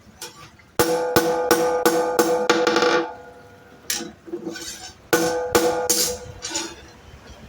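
Hammer blows on a golok (machete) blade over an anvil, each strike ringing with the same clear metallic tone. A quick run of about seven blows at roughly three a second, a short pause with a stray hit, then another run of about five.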